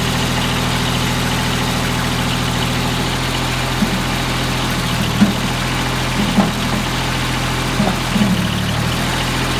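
Kubota backhoe's diesel engine idling steadily, with a few short clunks in the second half.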